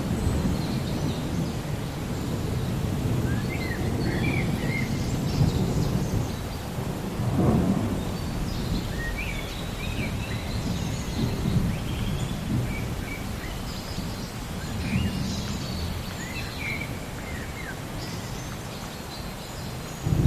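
Small birds chirping on and off over a continuous low rumbling noise that swells briefly about seven seconds in.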